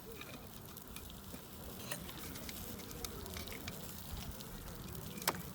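Faint sizzling and crackling from a charcoal brazier fire with mackerel grilling on it, with a few light clicks.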